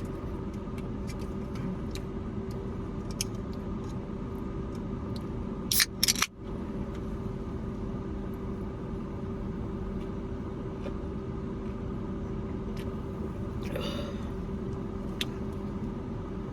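Steady low hum of a car engine idling, with scattered small clicks and a brief loud crackle about six seconds in.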